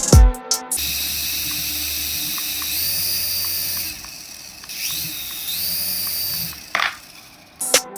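Small electric motor of a remote-control toy whirring at high speed in two spells with a short pause between, its pitch rising partway through each spell.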